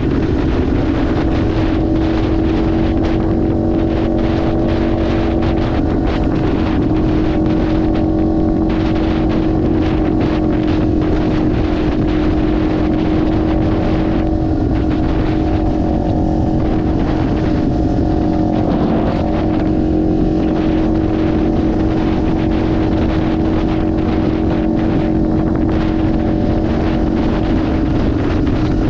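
Kawasaki Ninja 500's parallel-twin engine running at a steady pace while riding, its pitch holding nearly level, with wind rushing on the microphone.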